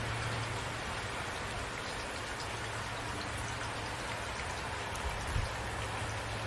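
Steady rain falling, an even hiss with scattered individual drops ticking and pattering on surfaces, and a soft low thump about five seconds in.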